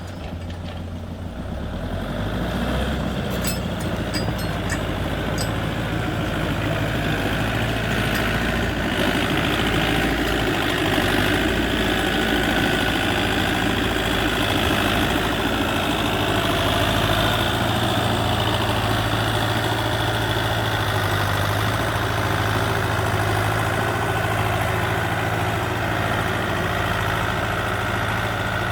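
Heavy machine's engine running steadily, building up over the first couple of seconds and then holding a constant drone.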